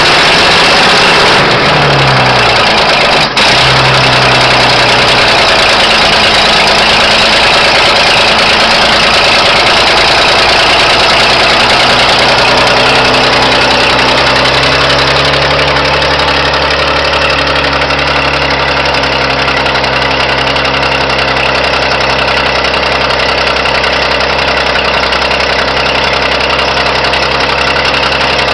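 M135CDN military truck engine running just after starting, its pitch rising and falling for the first few seconds as it is revved, then settling into a steady idle.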